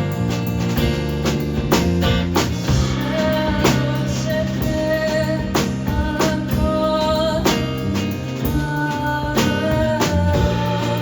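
Live band playing a song: guitar and drums keeping a regular beat, with a voice singing long held notes from about three seconds in.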